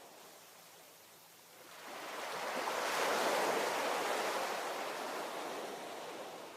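A single ocean wave breaking and washing up the shore: a rising rush of surf that peaks a few seconds in and slowly fades, over a low steady hiss.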